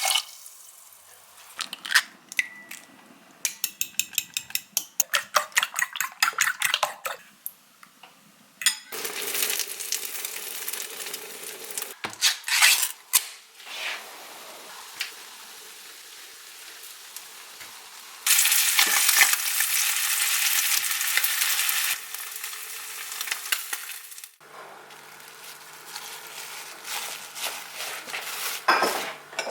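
Kitchen cooking sounds: a run of quick, even taps, then stretches of food sizzling in a pan, with pots and utensils clinking. A steady hum sets in near the end.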